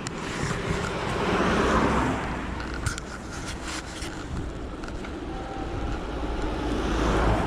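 Cars passing on the road: a rush of tyre and engine noise that rises and fades about two seconds in, and another building near the end, over a steady low rumble.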